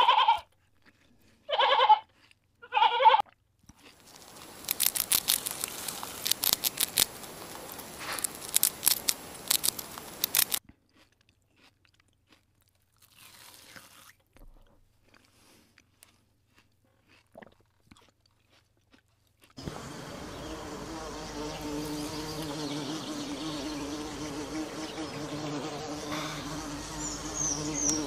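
A sheep bleats three times, then a sheep crops and chews leafy forage close by, a run of crunching bites. After a long near-silent stretch, a bumblebee's steady buzz sets in about two-thirds of the way through.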